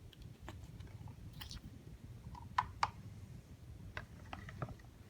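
Scattered light clicks and taps from small plastic containers being handled, a few sharper clicks in the second half.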